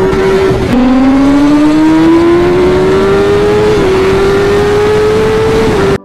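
Kawasaki ZX-10R's inline-four engine at high revs under hard acceleration at highway speed, with wind rush. Its pitch drops sharply just under a second in, then climbs steadily for about three seconds, dips slightly and climbs again before cutting off at the end.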